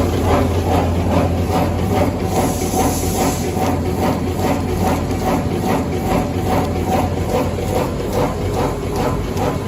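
Automatic wet-tissue packaging machine running: a steady hum with a regular clatter of about two and a half strokes a second, and a short hiss about two and a half seconds in.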